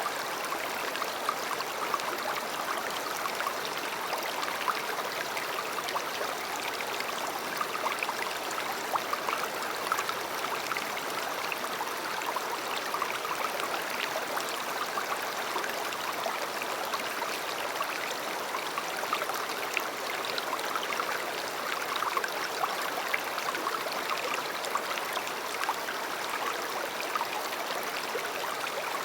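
A river running: a steady rush of flowing water over stones, with small splashes and gurgles all through it.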